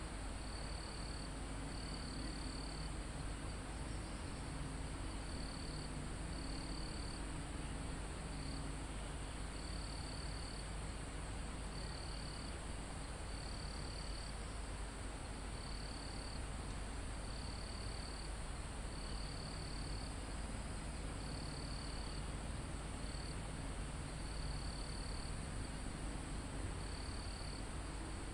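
Forest insect chorus of crickets and other insects. A steady high shrill of many insects is joined by one insect calling in short trills, each about half a second to a second long, every couple of seconds, over a steady low rumble.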